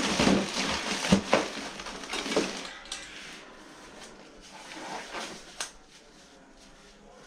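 Putty knife scraping and clinking while working sticky filler, busiest in the first two seconds or so, with a few lighter taps about five seconds in.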